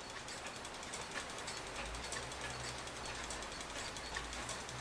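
Mechanical wind-up clocks ticking, a quick, uneven run of light clicks as several movements tick at once.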